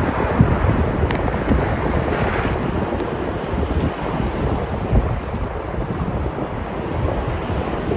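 Sea surf washing and breaking on the shore, a continuous rush of water, with wind buffeting the microphone in irregular low rumbling gusts.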